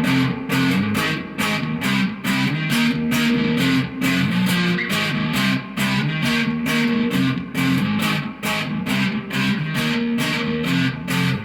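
Electric guitar played through an amplifier: a riff of picked notes and chords, about three strokes a second, with the pitch shifting as the riff moves.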